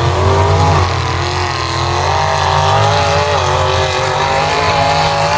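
Mega mud truck engine running hard at high revs. Its pitch climbs about half a second in, dips around a second in, climbs again about two seconds in, and then holds high.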